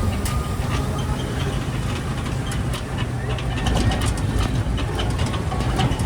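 A motor vehicle running steadily with a low engine hum and constant rattling and clicking.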